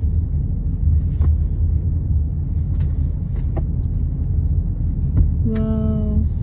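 Steady low rumble of a car's engine and tyres heard from inside the cabin while driving, with a few faint clicks. Near the end comes a short held hummed note.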